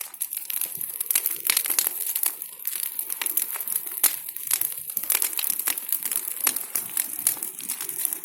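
Bonfire of branches burning, a dense, irregular crackling of sharp pops and snaps throughout.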